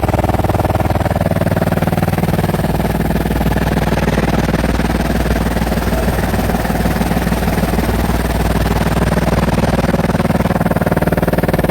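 Helicopter running steadily: a continuous engine drone with fast, even rotor chop.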